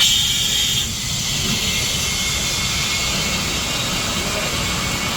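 Compressed air hissing steadily into a semi-truck tire as it is inflated, over a low rumble, with a sharper, higher hiss in the first second.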